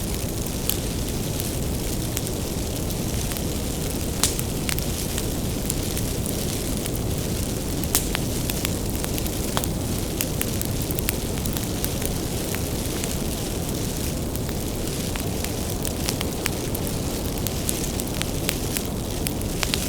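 Wood bonfire burning with a steady low rumble, and sharp crackles and pops from the firewood scattered throughout, two of them louder at about four and eight seconds in.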